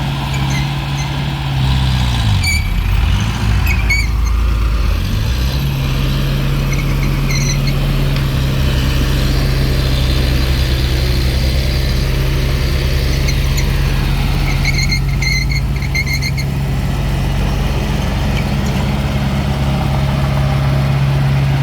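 Diesel engine of a mini bulldozer running steadily. Its pitch dips and wavers between about two and five seconds in, then holds level, with short high squeaks scattered over it.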